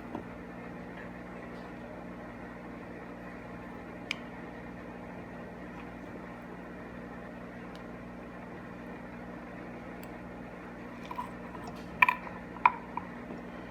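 Steady low mechanical hum of a running machine, with a few short sharp clicks, two of them close together near the end.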